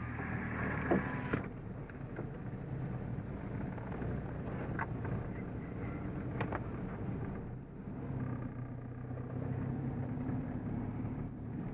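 Seat Ibiza TDI's turbodiesel engine running at low speed, heard from inside the cabin along with tyre noise on the wet surface. The engine note dips briefly about two-thirds of the way through, and there are a few light clicks.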